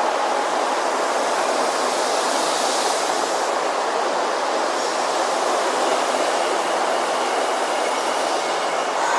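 Kyoto Municipal Subway 10 series train running at the underground platform: a steady rail rumble with faint high wheel tones near the end.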